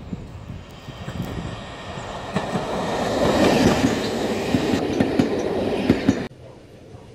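A first-generation diesel multiple unit passes close by, engines running and wheels clicking over the rail joints. It grows to its loudest about halfway through, then cuts off suddenly near the end.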